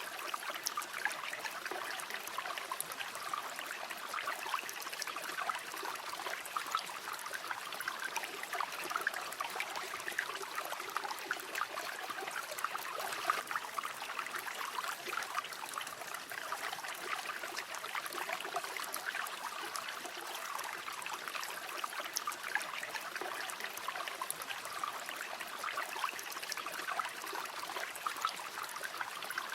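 River water flowing steadily over stones, a continuous babbling and trickling rush without pauses.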